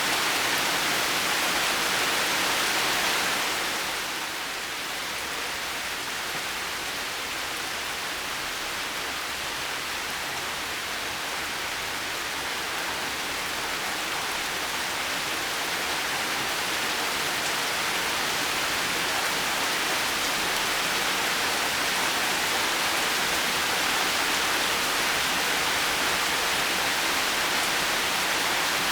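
Steady heavy rain, an even hiss. About four seconds in it softens slightly, then slowly builds back.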